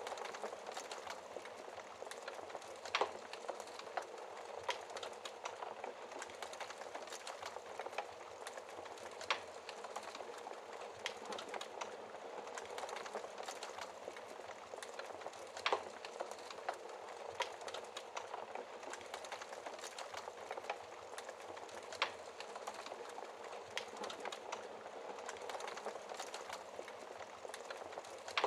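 Wood fire burning in a fireplace: a steady crackling hiss full of small snaps, with a few louder pops about every six seconds.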